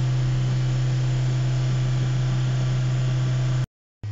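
GAC GS4's engine held at a raised, steady speed of a few thousand rpm to warm it up toward normal operating temperature, heard from the driver's seat as a constant low hum. The sound cuts out abruptly near the end.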